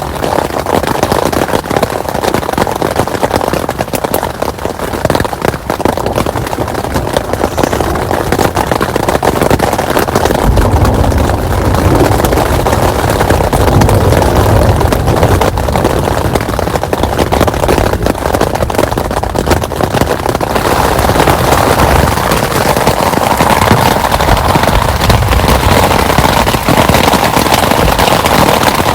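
Heavy rain falling hard, a dense crackling patter of drops. A low rumble comes in about ten seconds in and returns later.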